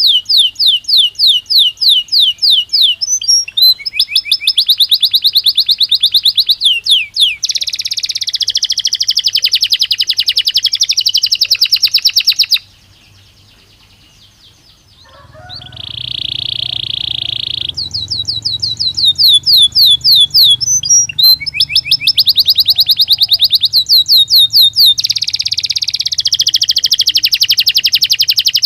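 Belgian canary singing: long runs of fast, rapidly repeated trills and rolls, phrase after phrase. The song breaks off about halfway through for a couple of seconds. It comes back with a steady held note over a low hum, then more fast trills.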